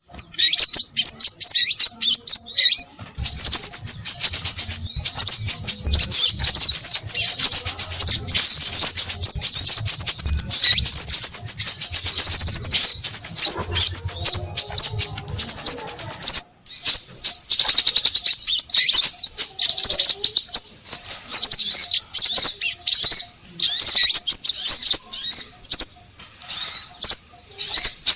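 Scarlet minivets calling busily: a dense, nearly continuous stream of rapid, high-pitched chirps and whistles, broken by a few short pauses. It is a lure recording of several birds calling noisily.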